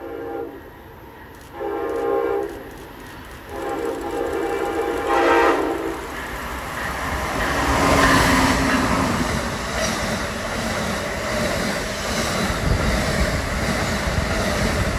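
Horn of a double-headed pair of Amtrak ACS-64 electric locomotives sounding three blasts, the last the longest, as the train approaches. From about six seconds in, the train passes at speed with steady wheel-on-rail noise.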